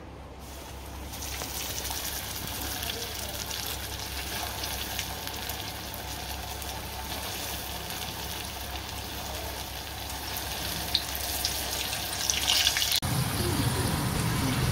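Cornflour-coated chicken pieces deep-frying in hot oil, a steady dense sizzle that starts about half a second in. About thirteen seconds in it cuts off abruptly and a low rumble takes over.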